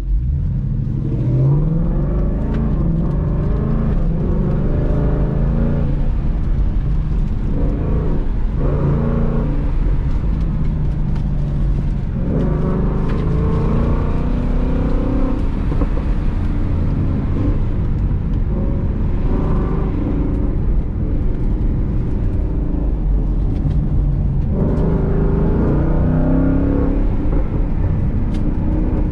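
Ford Mustang engine heard from inside the cabin on an autocross run. It pulls away hard with a climbing pitch about a second in, then accelerates and backs off again and again, its pitch rising and falling through the course.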